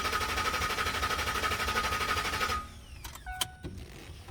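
2009 Ford F-150's starter cranking the V8 in an even pulsing rhythm without it catching, cutting off abruptly about two and a half seconds in. The engine does not fire because the fuel pump's 20 amp fuse has been pulled. A few light clicks and two brief tones follow.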